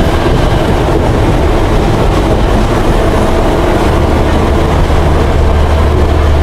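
Train running on the rails: a steady rumble of wheels on track with a low drone that grows stronger about four seconds in.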